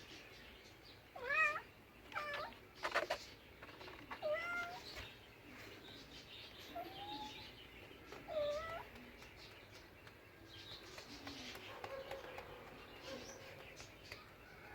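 A cat meowing: five or six short calls, each bending up or down in pitch, over the first nine seconds or so, with a sharp click about three seconds in, then fainter sounds.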